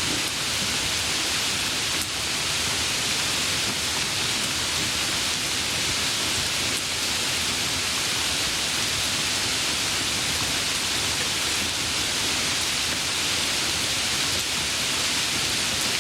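Steady heavy rainfall, a dense even hiss with no separate drops, thunder or other sounds standing out.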